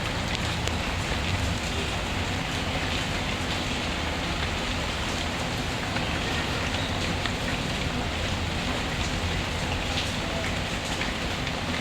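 Steady rain falling, mixed with the scattered crackle of a wood fire in a fireplace.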